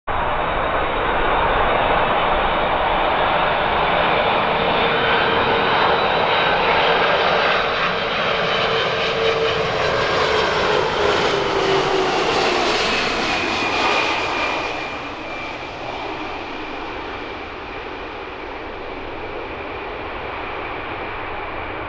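Boeing 747's four jet engines running loud as the jet passes close by. The engine whine drops in pitch about two-thirds of the way through, and the sound then eases off somewhat.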